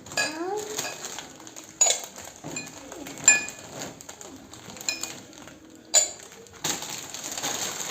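Bowls clinking against each other as they are handled: several separate sharp clinks that ring briefly, then a rustle near the end.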